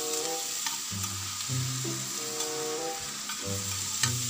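Chopped pork sisig sizzling in hot oil just after liquid seasoning is added, a steady hiss with a few light clicks. A melody of background music plays over it.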